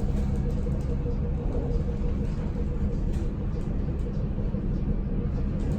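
Hamburg U-Bahn subway train running, a steady low rumble with faint scattered clicks.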